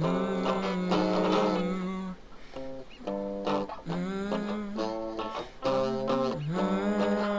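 Grunge band demo music with no words: guitar playing phrases of long held notes that bend in pitch, about every two seconds.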